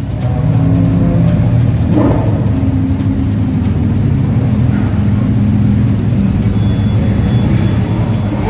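Car engine running steadily, revved once briefly about two seconds in.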